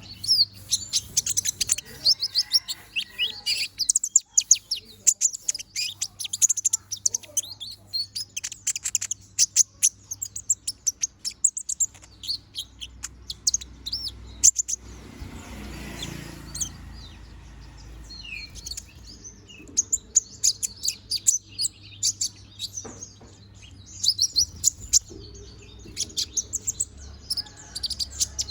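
A konin bird, in moult with its feathers growing back, singing persistently: rapid, high-pitched twittering chirps in long runs, with a few seconds' lull about halfway through before the chirping picks up again.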